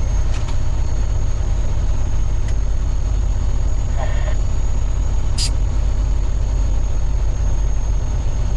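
Dump truck's diesel engine running steadily, a loud low rumble, with a thin steady high whine over it and a single sharp click about five seconds in.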